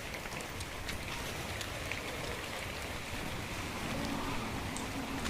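Steady rain falling, with many scattered drops ticking sharply. A faint low hum comes in about four seconds in.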